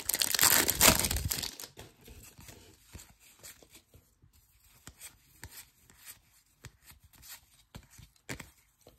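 Foil baseball card pack wrapper torn open in a crinkly burst lasting about a second and a half, then faint clicks and rustles of cards being handled.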